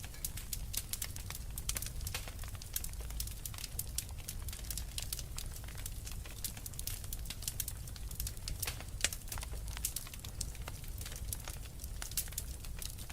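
Wood fire in a fireplace crackling steadily with dense, irregular snaps and pops over a low rumble, one louder pop about nine seconds in.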